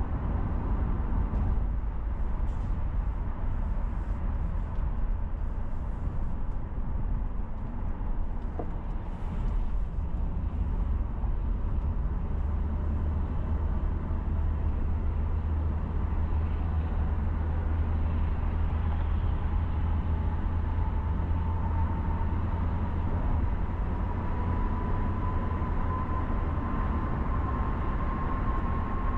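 Car driving on city roads: a steady low rumble of engine and tyre noise. A faint whine rises slowly in pitch through the last several seconds.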